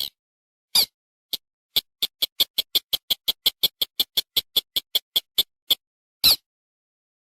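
Recorded call of a paddy-field crake (sintar) played as a hunting lure: a couple of single sharp notes, then a fast run of about twenty short, high notes at roughly five a second that slows near the end, and one last single note.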